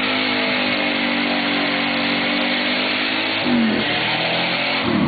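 A third-generation Pontiac Firebird's engine revving hard at a fairly steady pitch as the car comes on, the note dipping briefly about three and a half seconds in. Near the end the rear tyres start to spin as the car gets out of shape.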